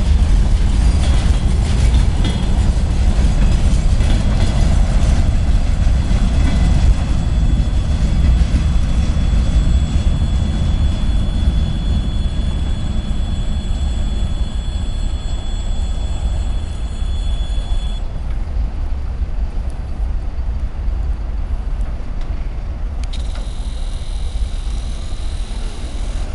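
ChME3 diesel shunting locomotive and its wagon moving on the track: a heavy low rumble with wheel clicks over the first few seconds. High wheel squeal comes in and cuts off about 18 seconds in, and the rumble eases slowly.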